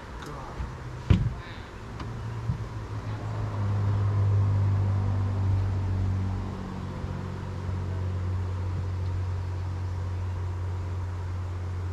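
A motor engine running with a steady low hum that builds a couple of seconds in and holds. A single sharp knock comes about a second in.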